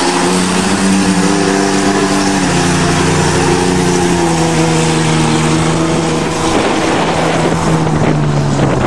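Vehicle engine held at steady high revs while doing donuts, its pitch dipping slightly twice, over a constant rush of wind and tyre noise.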